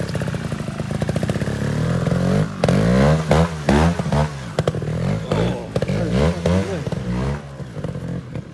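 Trials motorcycle engine revved in a series of quick throttle blips, its pitch rising and falling sharply several times in a row before settling near the end.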